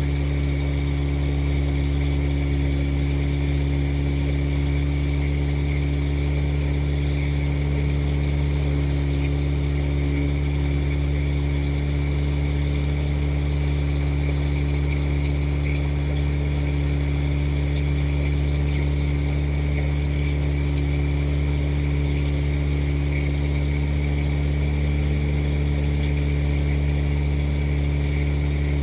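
Motorboat engine running steadily at an even speed, a constant low drone that does not change.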